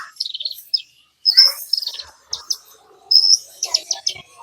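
Small songbird chirping: bunches of quick, high chirps and short trills with brief pauses between them.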